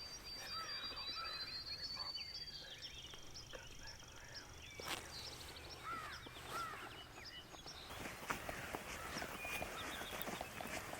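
Songbirds singing: a high, thin trill in the first two seconds, then scattered short chirps and whistled notes. From about eight seconds in, crackling rustles join them.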